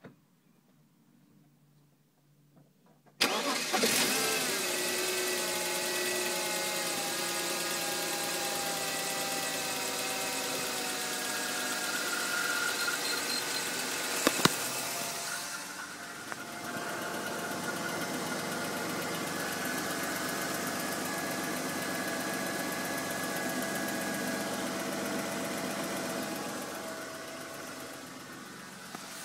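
BMW M52 straight-six engine starting about three seconds in and then idling steadily, its engine note drifting slightly lower over the first few seconds, with high whining tones over the idle. A single sharp click about halfway through.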